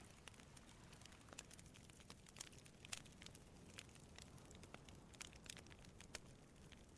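Wood campfire crackling: faint, irregular sharp pops and ticks of burning wood, a few louder snaps among them, over a low steady rumble.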